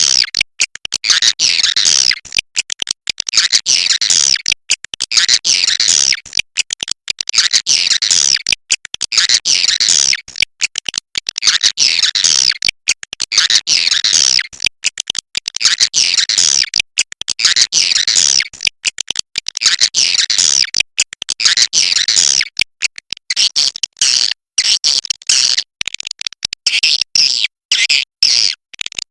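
Swiftlets calling: rapid, clicky chattering trills in repeated bursts about every two seconds, the bursts getting shorter and quicker in the last few seconds.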